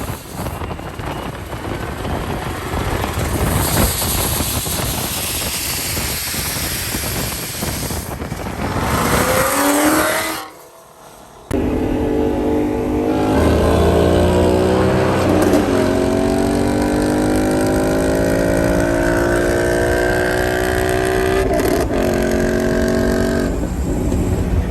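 Boosted 5.0 V8 Mustang engine running loud under hard acceleration. After a sudden cut to quiet about ten seconds in, the engine note climbs steadily in pitch through a long pull.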